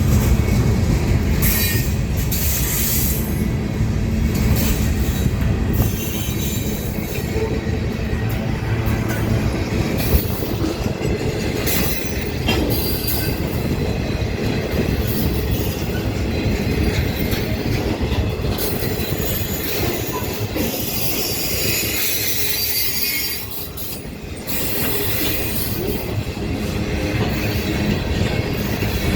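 Ferromex freight train rolling past on the rails. Its cars rumble steadily while the wheels squeal and screech again and again.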